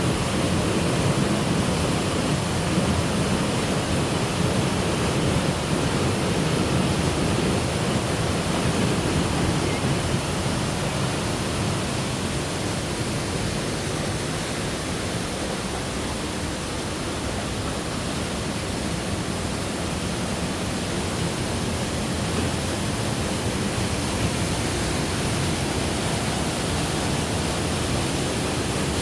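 Waterfall: a steady, loud rush of falling water, easing slightly in the middle.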